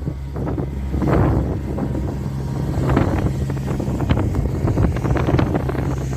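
Storm wind gusting against the microphone over a steady low hum, with short crackling clicks through the second half.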